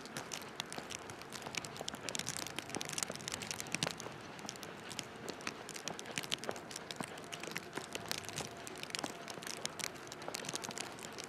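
Footsteps crunching through snow: a dense, irregular crackle.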